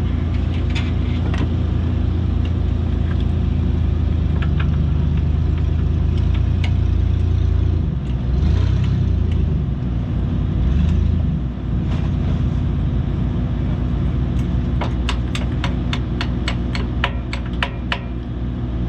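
Engine of a heavy machine running steadily, picking up speed briefly around eight and again around eleven seconds in, as under load. Near the end comes a quick, even run of sharp metallic clicks.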